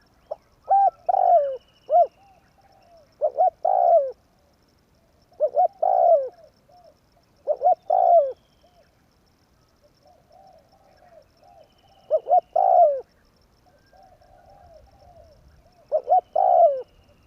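Spotted dove (tekukur) cooing: six loud phrases about two seconds apart, each a few short coos ending in a longer note that falls in pitch. Softer coos fill a longer pause about midway.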